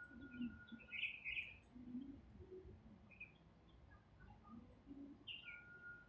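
Faint garden birdsong: scattered short chirps from several small birds, with a thin held whistled note near the start and again near the end.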